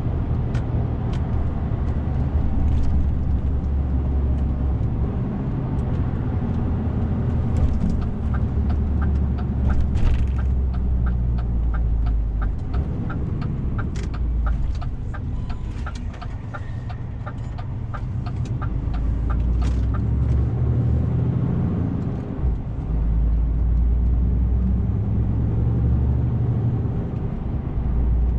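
DAF CF 450 truck's diesel engine running on the road, with the engine note easing and picking up again a couple of times. In the middle a steady ticking, about two to three a second, runs for about twelve seconds, like a turn-signal indicator.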